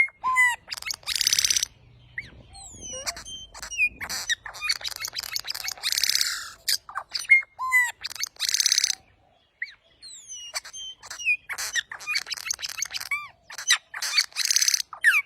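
A bird calling loudly and repeatedly: harsh, raspy screeches mixed with short whistled chirps that sweep up and down in pitch.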